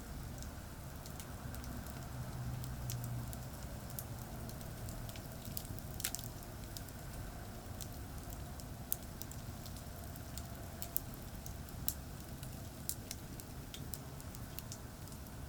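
Wood campfire crackling, with scattered sharp pops, one of the strongest about six seconds in. Under it runs a steady low rumble of traffic on a nearby expressway.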